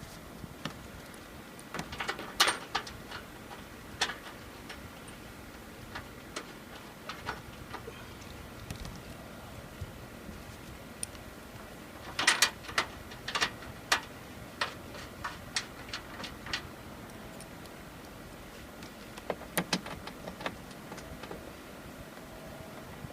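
Scattered clicks and knocks of hand work on a rooftop RV air conditioner, with tools and parts being handled while it is closed up. They come in three bunches, about two, twelve and nineteen seconds in, over a faint steady background noise.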